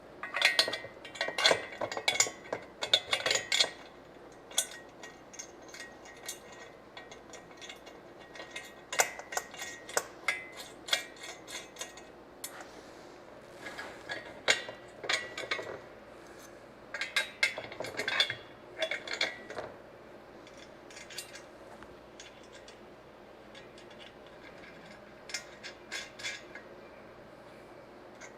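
Metal parts and bolts of an engine stand clinking and knocking together as they are handled and fitted during assembly. The clinks come in bunches of quick taps with pauses in between: near the start, around the middle, and once more near the end.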